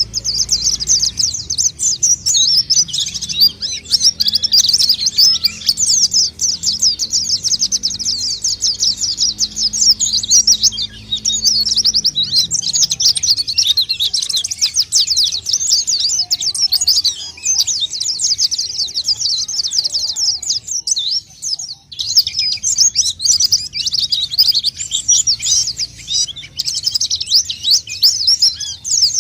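White-eye (pleci) song used as a bird-lure call: a rapid, continuous high twittering of quick chirps, with a short break about three quarters of the way through.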